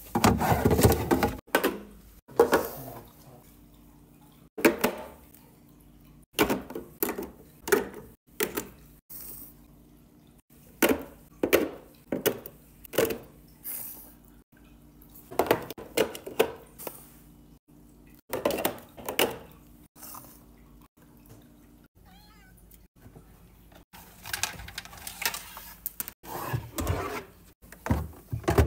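Cat food and supplies being handled and put away in a cabinet: an irregular series of short rustles, knocks and clatters of packaging, with brief pauses between them.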